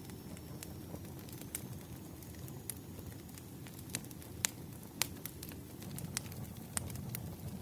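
Wood fire crackling: irregular sharp pops and snaps over a low steady rumble, with a few louder pops in the second half.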